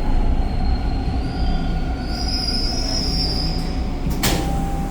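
TTC Line 2 subway train running, heard from inside the car: a steady low rumble with high wheel squeal that swells about a second and a half in, and a sharp clack about four seconds in.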